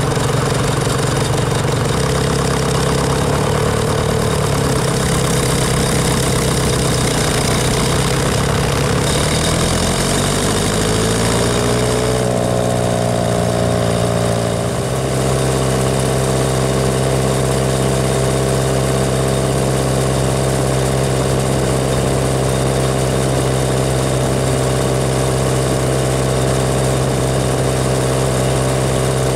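Tractor engine running under way on the road, heard from on board. Its note sags slightly, rises about a third of the way through, dips briefly near halfway, then holds steady.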